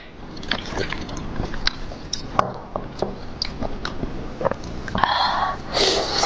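Close-miked mouth sounds of eating whole octopus: many short wet clicks and smacks of biting and chewing. Louder, denser bursts come near the end.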